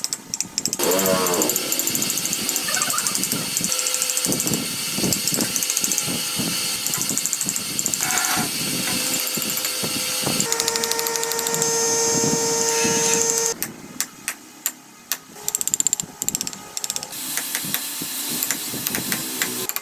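Power tools working wood, changing in character several times. Partway through, a steady machine whine comes in for about three seconds, then gives way to a quieter run of sharp knocks and clicks.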